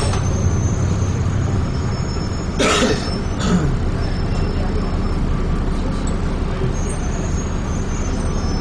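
Steady engine and road noise heard inside a Transbus ALX400-bodied Dennis Trident 2 double-decker bus, with two brief sharp noises about three seconds in.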